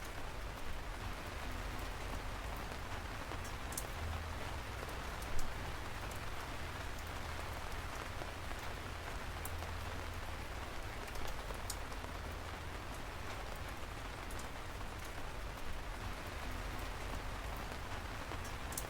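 Steady rain falling on a surface, with scattered individual drops ticking sharply and a brief louder splash about five seconds in.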